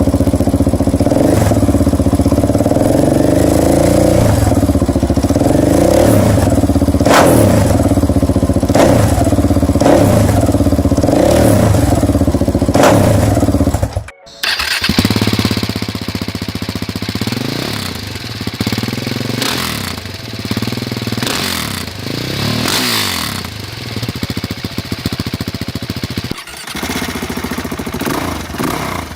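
Husqvarna 701 Supermoto's single-cylinder engine through an aftermarket exhaust, repeatedly blipped from idle. About halfway through the sound cuts out briefly and a quieter stretch of the same kind of revving follows.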